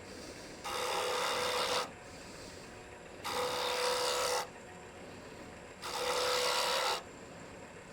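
A workpiece pressed three times against a spinning lathe-mounted disc sander faced with 80-grit sandpaper, each pass a rasping sanding sound lasting about a second.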